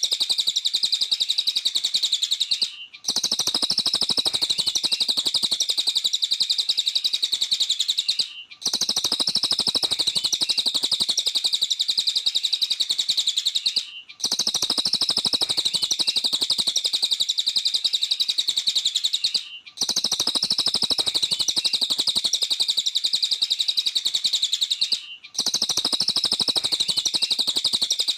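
A cililin songbird singing a fast, continuous, high-pitched chattering song. The song breaks off briefly about every five and a half seconds.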